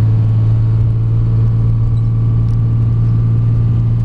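Cummins 5.9-litre inline-six turbo diesel of a 2004 Dodge Ram 3500 pulling at a steady engine speed while driving, heard from inside the cab as a steady low drone.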